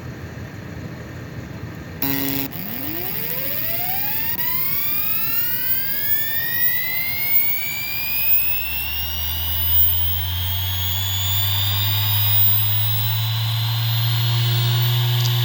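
Hitachi Deskstar E7K500 7200 rpm hard drive powering up: a short burst about two seconds in, then a whine that rises steadily in pitch as the spindle motor spins the platters up to speed, settling into a steady high whine with a low hum beneath. A few brief bumps sound along the way.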